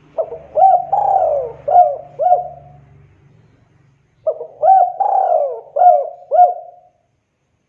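Spotted dove (tekukur) cooing: two call phrases a little over a second apart, each a run of short looping coos with one longer drawn-out coo near the start.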